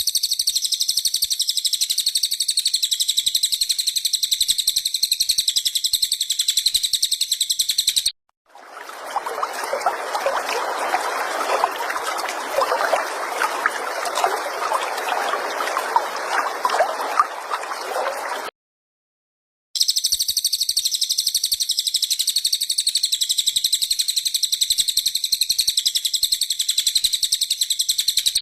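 A cililin's song: a fast, high-pitched trill of evenly repeated notes, cut off after about eight seconds, then about ten seconds of trickling water after a short gap, then the same trill again after another gap.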